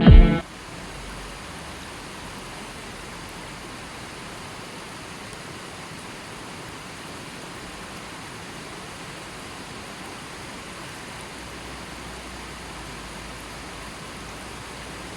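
Steady, even rushing hiss with no distinct events, a nature-sound background; the tail of electronic piano music cuts off right at the start.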